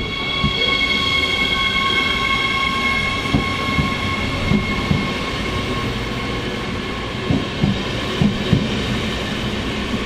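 A train rolling through a station, with a steady high whine of several tones that fades about halfway through, over a low rumble. Wheel clacks over rail joints come now and then and bunch together near the end.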